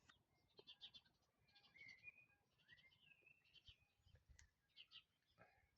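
Faint outdoor birdsong: a series of short, buzzy, rapidly pulsed calls, with a few brief whistled notes that glide in pitch.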